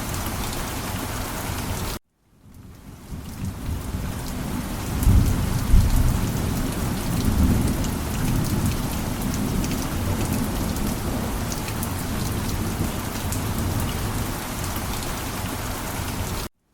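Steady heavy rainfall with a low thunder rumble swelling about five seconds in. The sound cuts out abruptly to silence about two seconds in and fades back up, and it cuts out again just before the end.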